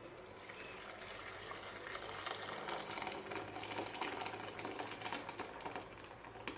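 Blended lemon peel pulp being worked through a strainer: a dense run of quick scratchy clicks of scraping against the mesh.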